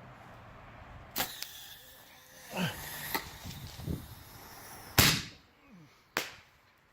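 A Firehawk Little Evil 1-inch artillery-shell firework going off, heard as a series of sharp bangs. The first comes about a second in, and the loudest, very loud, about five seconds in.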